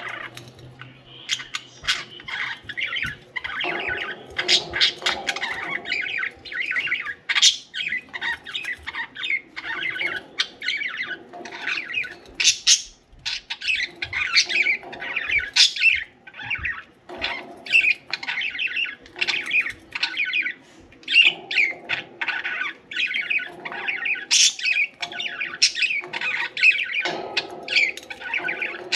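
Several budgerigars (parakeets) chattering without a break, a dense mix of short chirps, warbles and squawks.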